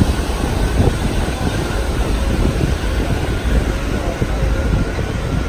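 Passenger train rolling along the track, a steady rumble of the moving railcar heard from on board.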